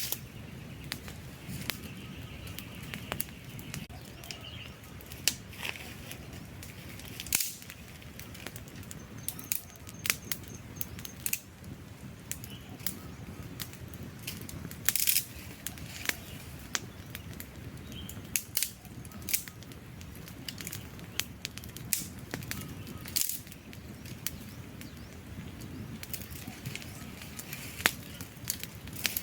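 Wood campfire burning: a steady low rush of flames with irregular sharp crackles and pops from the burning logs, a few of them louder.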